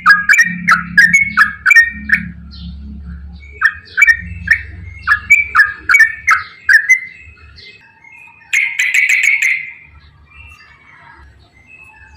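Yellow-vented bulbul (trucukan) singing a long, rapid song of loud, bubbly, dropping notes, about three a second. The notes come in two runs, followed by a short, dense chatter past the middle and a few fainter calls near the end.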